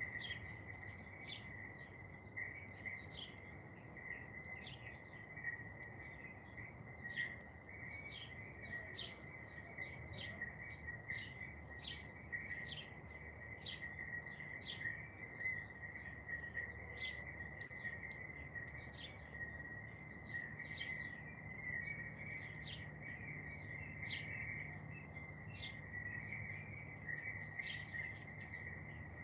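Garden birds calling with many short, sharp chirps, one every second or so, over an unbroken steady high-pitched trill and a faint low background rumble.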